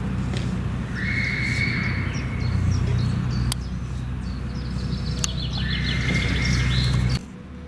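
A steady low rumble that cuts off suddenly near the end, with a songbird singing twice over it: a held high note with a fast ticking trill above, about a second in and again around six seconds in.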